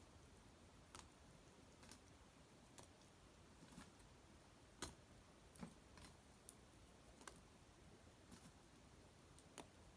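Small wood fire burning low, giving faint, irregular crackles and ticks about once a second, with one sharper pop a little past the middle.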